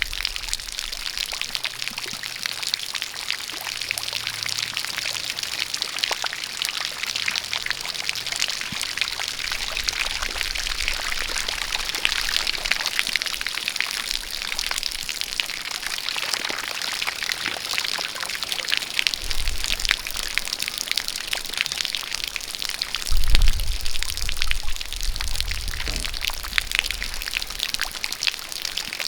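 A jet of water pouring and splashing steadily, with rain falling and many fine drips pattering through it. A low rumble comes and goes twice in the second half and is loudest a little past three-quarters of the way through.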